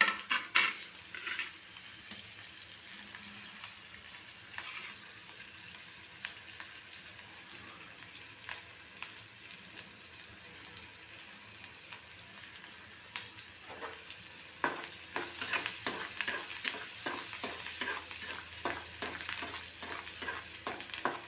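Chopped garlic and green chillies sizzling in hot oil in a metal kadhai during the tempering (phodni). A few spatula scrapes come at the start, then a steady sizzle, and for the last third a metal spatula stirs and scrapes the pan repeatedly, about two or three strokes a second.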